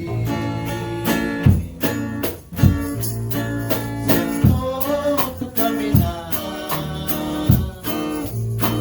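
Live worship music: a band with guitar, bass and a jingling tambourine-like percussion keeping a steady beat, with a sung melody over it.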